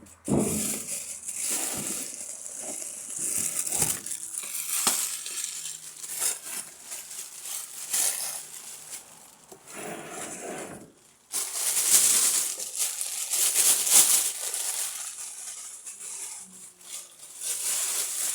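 Paper or plastic packaging crinkling and rustling in irregular spells as it is handled.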